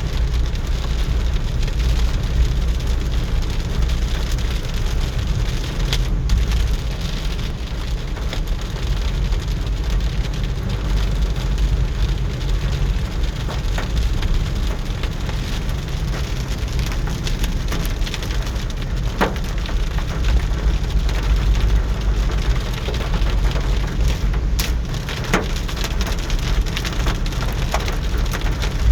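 Steady rain falling, a dense even hiss with a low rumble underneath and a few sharper drops or drips hitting a nearby surface.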